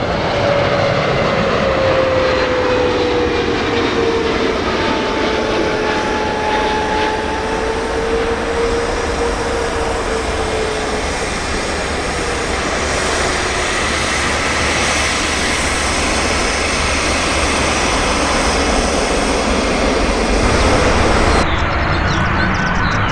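Jet airliner's engines running loud and steady, with a whine that falls slowly in pitch over the first ten seconds as the aircraft passes. The sound changes abruptly near the end.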